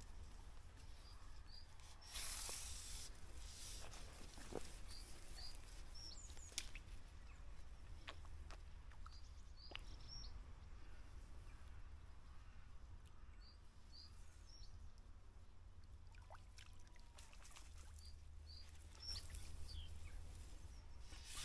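Quiet riverbank ambience: a small bird calling in short high chirps, often in pairs, repeating every few seconds over a low steady wind rumble. A brief rushing rustle comes about two seconds in.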